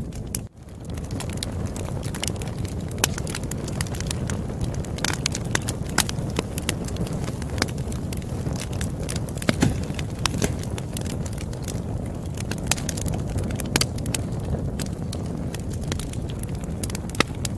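Campfire burning with a steady low rumble and frequent sharp, irregular pops and snaps of the wood. The sound briefly drops out about half a second in.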